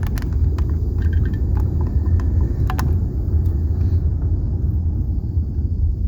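Low, steady road rumble of a car driving slowly, heard from inside the cabin, with scattered light clicks and ticks during the first three seconds.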